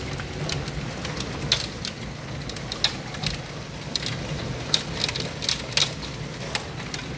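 Hailstones striking hard surfaces: many irregular sharp ticks and clacks over a steady rain-like hiss, with a low steady hum underneath.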